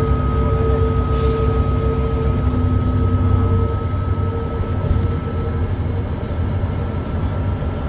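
Volvo D9B 9.3-litre diesel engine of a Volvo B9TL double-decker bus running under way, heard on board, a bus with an exhaust leak. Over a dense low rumble there is a steady high whine, and a short hiss comes about a second in. The engine's steady tones ease off about halfway through.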